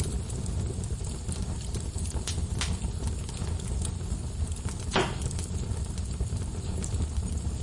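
Wood fire in a fireplace crackling over a steady low rumble of flame, with scattered sharp pops and one louder snap about five seconds in.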